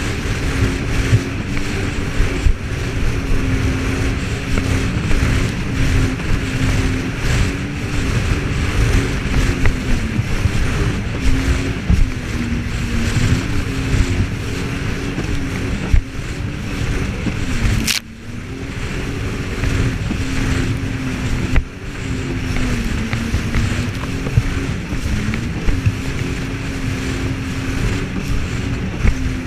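Jet ski engine running steadily at speed, its pitch wavering slightly, over a steady rushing noise. The level drops briefly about two-thirds of the way through.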